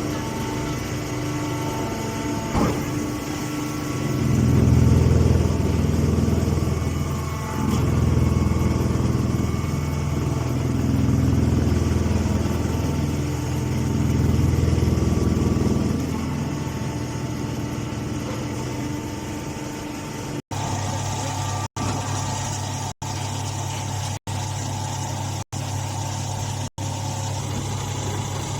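An engine running steadily, swelling louder several times in the first half. In the last part the sound drops out briefly about every second and a quarter.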